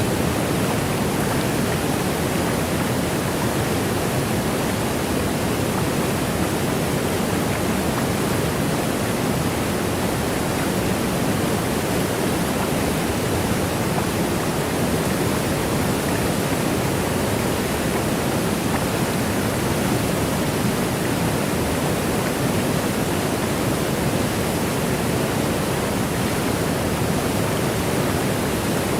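Waterfall: a steady, unbroken rush of falling water, an even hiss weighted toward the low end with no changes or separate splashes.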